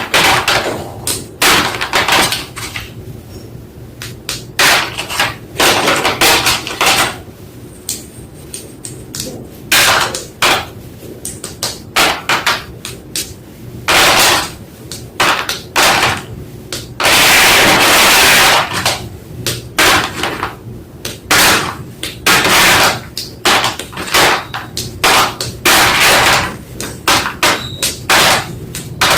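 White school chalk blocks crunching and crumbling: a run of sharp, irregular crunches, with one longer grinding crunch of about a second and a half a little past the middle.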